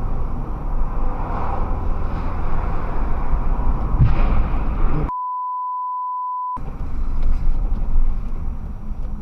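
Steady low rumbling noise, cut off about halfway through by a censor bleep: one flat, steady beep lasting about a second and a half, after which the rumbling resumes.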